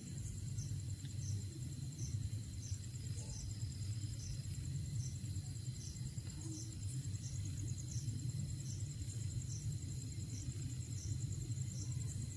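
Night insects, crickets, calling steadily: one repeats a short chirp about twice a second over another's continuous high trill, above a steady low rumble.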